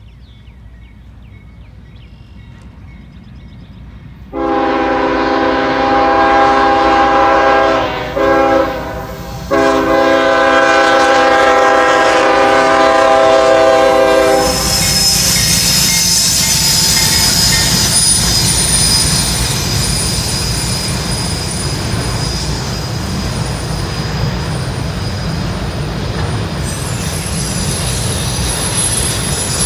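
Diesel locomotive's multi-chime air horn sounding a long blast, a short one and another long blast, then the auto-rack freight train rolling past with a steady rumble and high-pitched wheel squeal.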